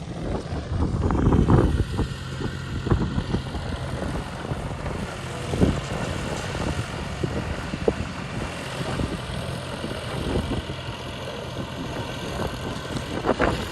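Tractor engine running steadily, with wind buffeting the microphone and scattered short knocks.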